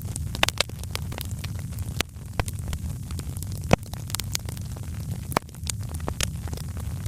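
Wood fire crackling in a fireplace: irregular sharp pops and snaps over a steady low rumble of the burning fire, one louder pop a little before halfway.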